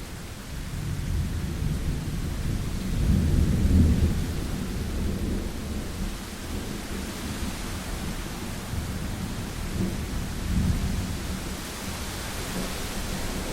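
Thunderstorm: low rolling thunder that builds about a second in, peaks a few seconds later and rumbles again near the end, over steady rain.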